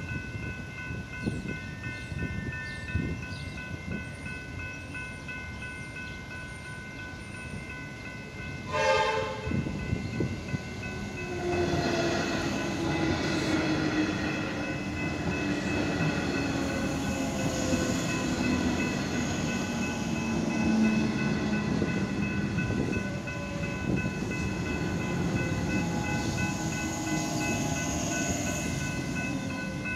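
Level crossing bells ringing steadily. About nine seconds in, an electric suburban train sounds a short horn blast, then rolls through the crossing with rising wheel and rail noise and a motor whine that falls slowly in pitch as the train slows.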